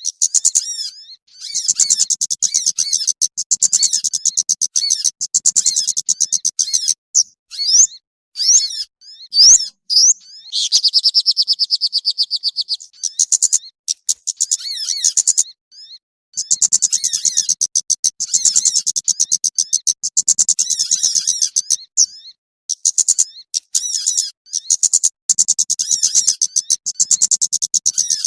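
Recorded small-bird lure call: bouts of rapid, high chirping and trilling that stop and start abruptly, with a steadier, slightly lower buzzing trill about eleven seconds in.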